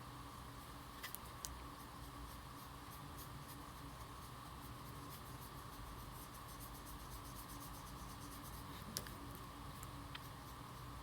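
Faint scratchy strokes of a colouring tool working over card stock as a door is filled in solidly with light brown, with a few small clicks. A steady low background hum runs underneath.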